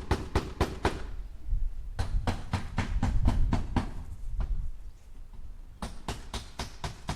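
Hammer striking nails into wood in rapid light taps, about five a second, in runs broken by a short pause about a second in and a weaker stretch near the five-second mark.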